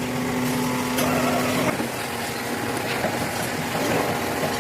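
Workshop machine running with a steady hum that drops out a little under two seconds in. A few sharp knocks of metal work sound over it.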